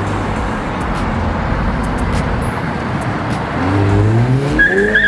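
Car engine running loud and revving up, its pitch rising over the last second and a half, with a high steady squeal joining near the end.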